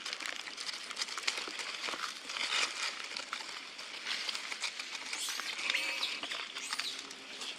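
Crinkling and rustling with many small scattered clicks, and a few short high squeaky glides about five and seven seconds in.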